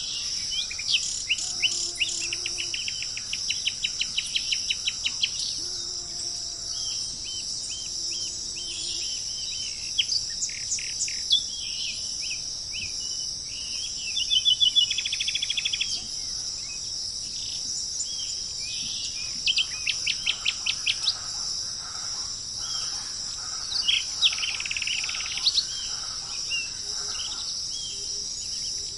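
Wild birds singing in repeated phrases of fast chirps and trills, each phrase a second or two long, over a constant high-pitched insect buzz.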